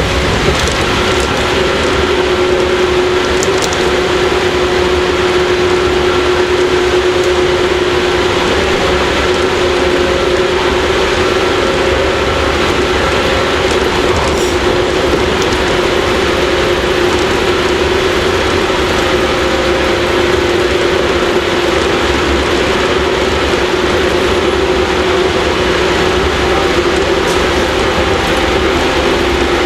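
Interior running sound of a JR 115 series electric multiple unit, heard in motor car KuMoHa 115: the traction motors and gearing hum steadily over continuous wheel and rail noise as the train runs at an even speed between stations.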